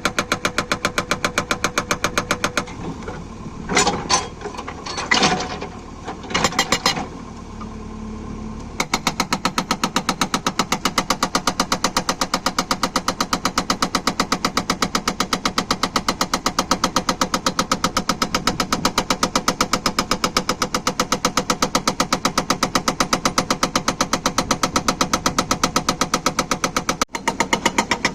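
Atlas Copco hydraulic breaker on a JCB 3DX backhoe loader hammering in a rapid, even stream of blows. It stops for about six seconds near the start, where a few louder irregular knocks and the engine running are heard, then starts again and hammers on until shortly before the end.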